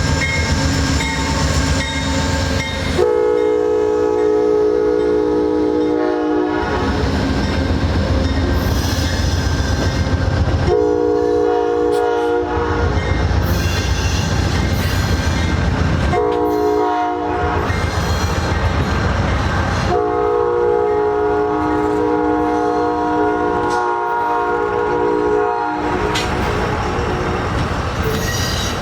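Amtrak passenger train's locomotive air horn sounding four blasts, two long, one short and a final long one: the standard signal for approaching a grade crossing. Under the horn runs the steady low rumble of the train on the rails.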